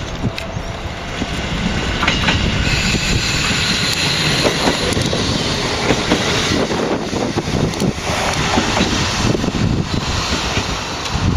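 Freight train passing close by: the wagons' wheels clatter over the rail joints in a dense run of clicks, and the sound grows louder over the first two seconds.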